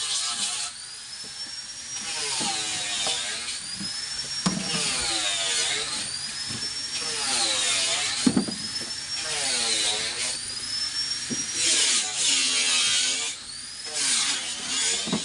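A bolt-on turbo-sound whistle accessory on an engine being revved repeatedly. It gives a high whistle that rises and falls with each rev, about every two seconds, over the engine's own note.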